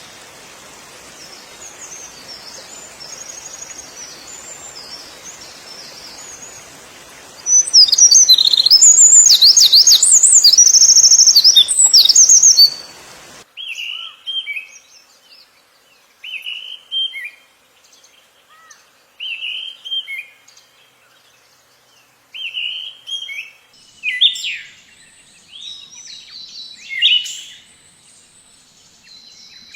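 Songbirds singing: high, fast twittering song over a steady hiss, loudest for a few seconds in the middle. About halfway through it cuts off suddenly to a different recording, where a bird gives short repeated calls every second or two and then more varied calls near the end.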